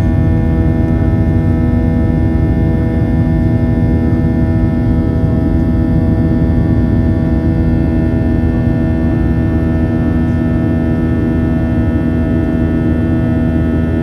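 Boeing 737's CFM56 turbofan engines heard inside the cabin during the climb: a steady loud drone with a low rumble and a set of steady humming tones that hold without change.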